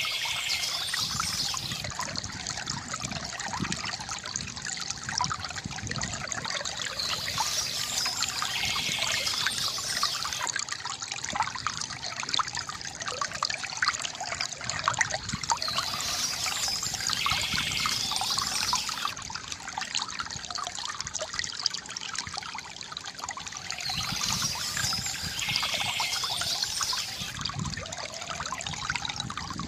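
Water trickling and gurgling steadily from a bamboo fountain, with short spells of bird chirping that come back about every eight seconds.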